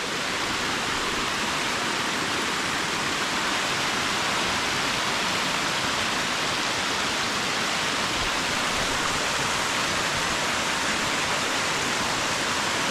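Steady, even rush of the Düden River's falling and running water, with no breaks or single knocks.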